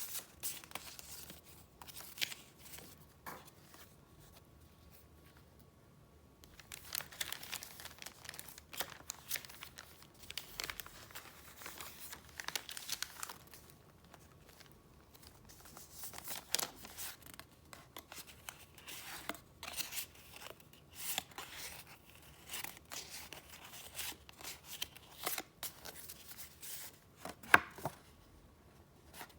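Paper and packaging being handled: irregular bursts of crinkling and rustling with sharp crackles, a quieter stretch a few seconds in, and one loud crack near the end.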